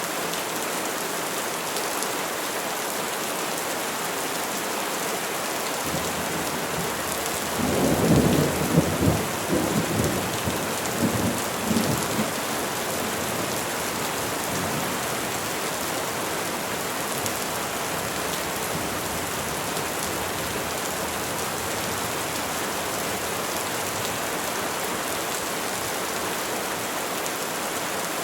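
Steady rain falling on trees. A rumble of thunder swells about six seconds in, is loudest over the next few seconds with several uneven peaks, then dies away, leaving only the rain.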